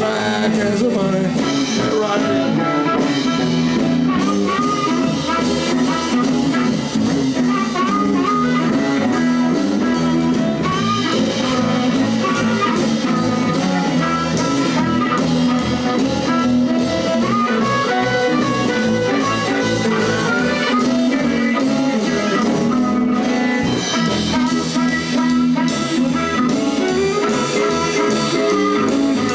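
Live blues band playing an instrumental passage: electric guitar over bass and a drum kit, with no singing.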